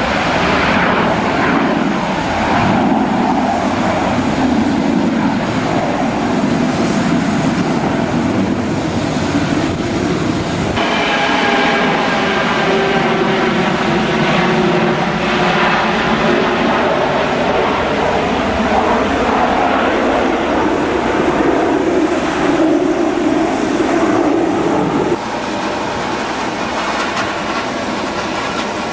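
Aircraft engines running at an airport: a steady loud rush with several whining tones in it. The sound changes abruptly twice, about a third of the way in and again near the end.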